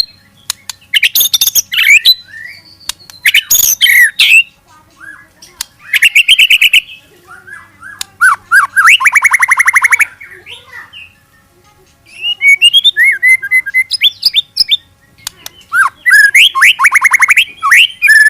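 White-rumped shama (murai batu) singing in loud phrases of about a second each: whistled glides and chirps, with two fast rapid-fire trills, one near the middle and one near the end, the 'nembak' style of song.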